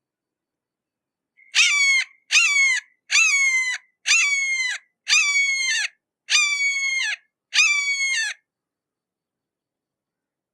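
A hawk calling seven times in a series of screeching calls, each under a second long and falling slightly in pitch, about a second apart.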